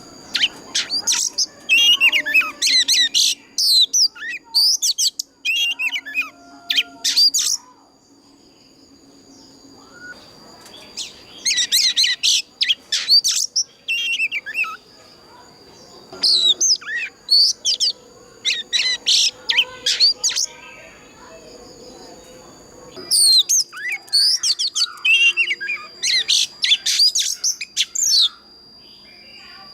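Oriental magpie-robin singing in four bouts of rapid, varied whistled phrases with short pauses between them. A faint steady high whine runs underneath.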